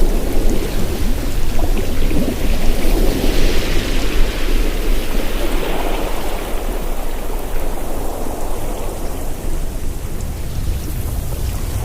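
Ocean waves washing on the shore: a continuous loud rushing over a low rumble, with one wave building about three seconds in and receding a few seconds later.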